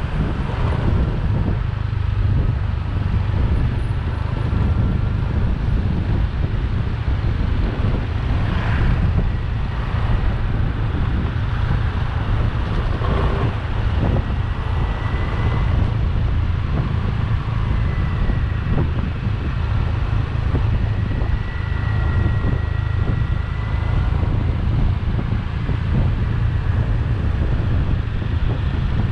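Wind buffeting the microphone on a moving motorbike, over the steady running of the bike's engine, with a faint high whine that comes and goes.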